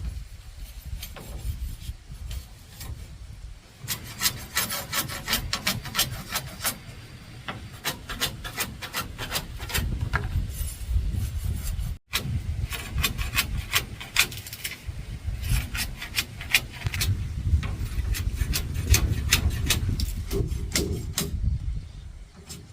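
Hand tool working wood with quick, repeated strokes, broken by a short gap about twelve seconds in.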